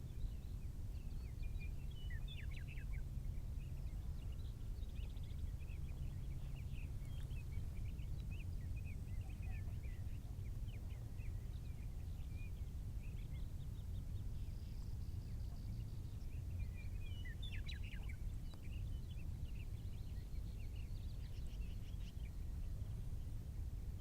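Small birds chirping and twittering, in clusters of quick notes, over a steady low rumble.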